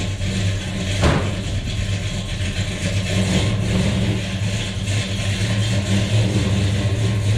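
A car engine running steadily with a low, even drone, and a single sharp knock about a second in.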